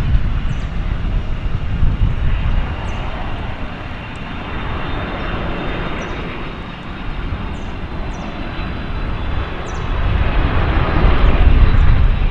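Jet aircraft engines roaring with a steady high whine over a deep rumble. The roar eases off through the middle and swells again near the end.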